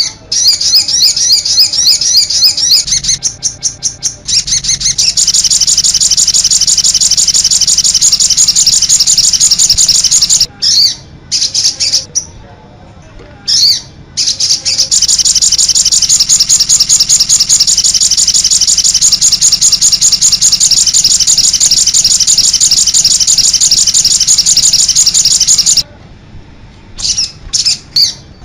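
Songbird song, high-pitched rapid trills and chattering phrases, in long unbroken runs broken by short pauses about ten seconds in and near the end. It is a recorded master-song track of the kind played to train caged songbirds.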